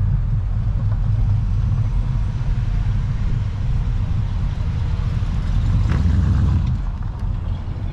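A car engine running with a steady low rumble, swelling briefly about six seconds in.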